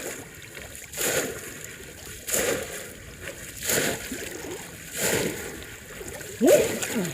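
Shallow water splashing in five regular strokes, about one every second and a half, as a bamboo polo plunge trap is worked in the water.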